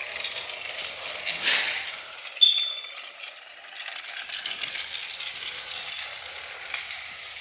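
Battery-powered TrackMaster toy engine running on plastic track, its wheels and gearing rattling and clicking, with a short high squeak about two and a half seconds in.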